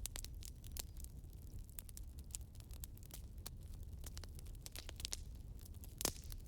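Wood fire crackling: a steady run of small pops and snaps over a low rumble, with one louder pop near the end.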